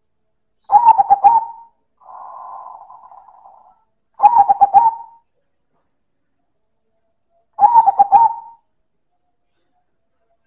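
Silver zebra dove (perkutut) cooing loudly: three separate phrases of rapid rolling notes, each about a second long and a few seconds apart.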